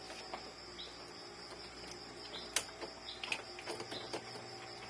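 Scattered small clicks and taps of printer parts being handled during reassembly, with one sharper click about two and a half seconds in, over a steady high-pitched background whine.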